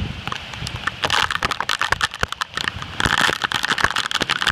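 Heavy thunderstorm rain coming down in gusts, surging louder twice, with many sharp clicks of drops striking close to the microphone and a low rumble of wind on it.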